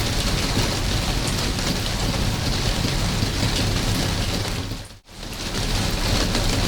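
Steady rain falling on surfaces, a dense even patter with a low rumble beneath. About five seconds in it briefly fades out and back in.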